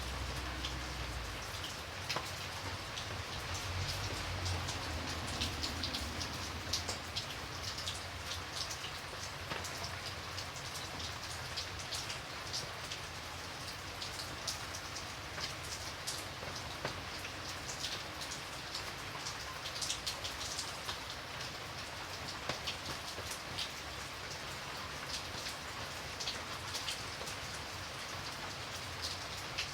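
Steady rain falling, with many separate drops tapping sharply on a surface through the even hiss.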